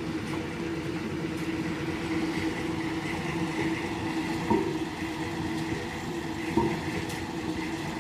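Road roller's diesel engine running steadily, with a steady hum, and two brief knocks, one about halfway through and another near the end.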